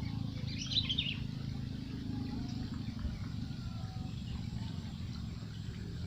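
A bird chirping, a quick run of high calls in the first second and a few faint short notes later, over a steady low rumble.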